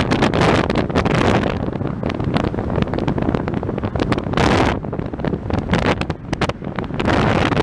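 Strong typhoon wind buffeting the microphone in gusts that swell and ease, with sharp crackles throughout.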